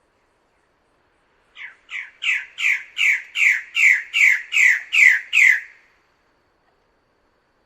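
Bird-of-paradise calling: a run of about eleven loud notes, roughly two and a half a second, each slurring down in pitch. The run starts softly, builds in loudness and breaks off before the six-second mark.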